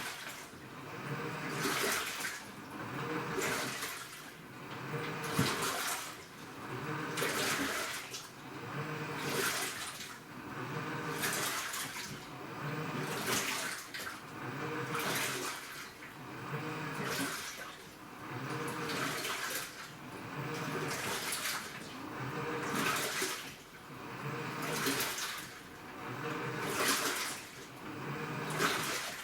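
AQUA washing machine with a direct-drive inverter motor agitating its load of water, the water churning and swishing in regular surges about every two seconds, with a low motor hum under each surge.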